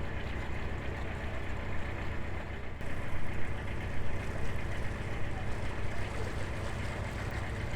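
A narrowboat's diesel engine running steadily under way: a constant low hum with an even hiss above it, which gets a little brighter about three seconds in.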